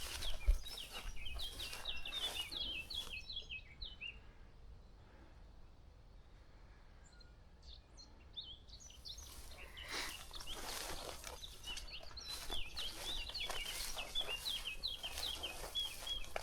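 Small songbirds singing in quick chirping phrases, which fade for a few seconds in the middle and return, over repeated soft swishes of footsteps through tall grass.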